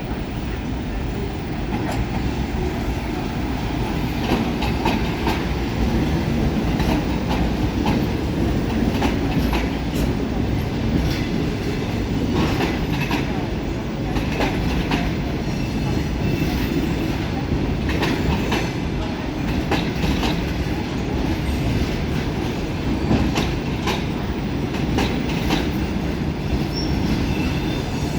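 Passenger train pulling in slowly, its cars rolling past with a steady low rumble and wheels clacking over rail joints, with faint high wheel squeals now and then.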